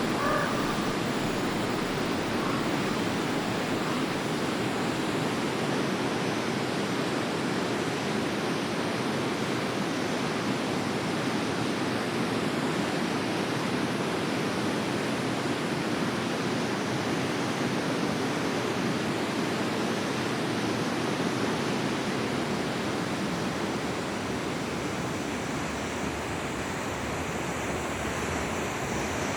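Forest river water flowing: a steady, unbroken wash of water noise. A bird calls briefly right at the start.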